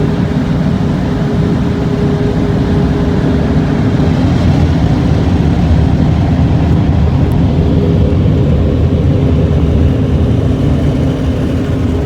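The blower dryers of a D&S Quicksilver rollover car wash running: a loud, steady rush of air over a low hum, with two steady tones held throughout. It swells slightly about four seconds in and eases a little near the end.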